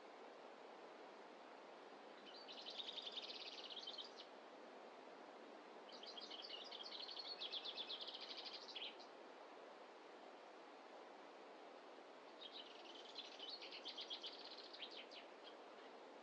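A small songbird singing three fast, high trilled phrases a few seconds apart, each lasting two to three seconds, over a faint steady rush of forest ambience.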